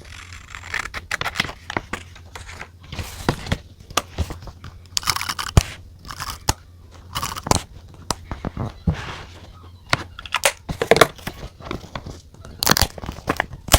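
Hands working on a paper diary: short rustles and crinkles of paper and sticker sheets, broken by many sharp clicks and taps, over a faint steady low hum.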